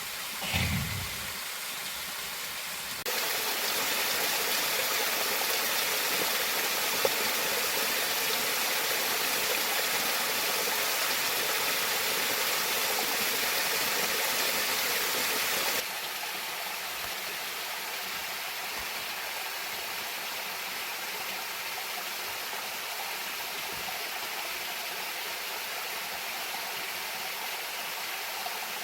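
Rushing water of a valley waterfall, a steady even rush. It gets louder about three seconds in and drops back to a lower level about sixteen seconds in.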